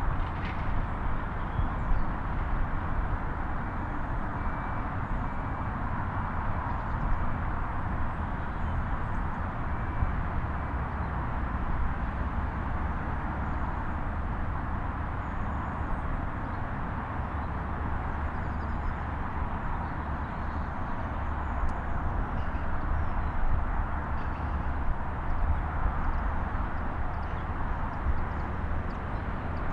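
Steady outdoor background noise with a deep rumble, and faint short high chirps here and there.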